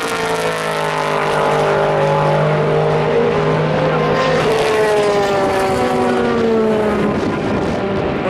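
Endurance race cars passing at speed, their engine notes falling in pitch as each goes by, with a second car following about halfway through.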